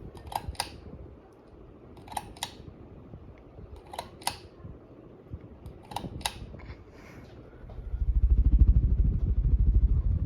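Hampton Bay Carriage House II ceiling fan making sharp double clicks, one pair about every two seconds, four times. About eight seconds in, a loud low rumble sets in.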